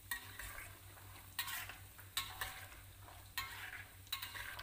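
Raw peanuts frying in hot cooking oil in a stainless steel wok over a low flame: a gentle sizzle, with a metal spatula stirring and scraping against the pan about five times.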